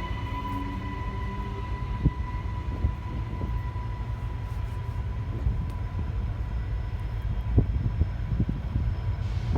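Freight train running with a steady low rumble and occasional short knocks, over a steady high whine that fades near the end.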